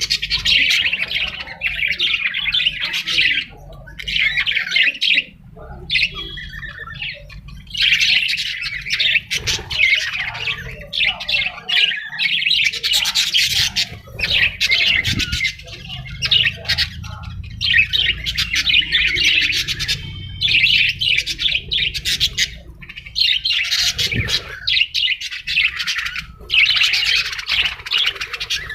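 Parrot squawking again and again, calls of one to a few seconds each with short pauses between.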